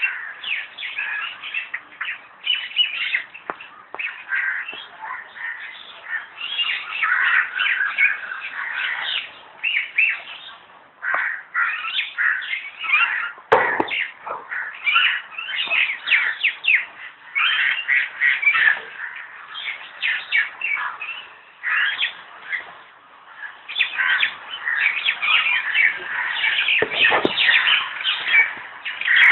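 A dense chorus of many birds chirping and squawking together, short overlapping calls running on without pause.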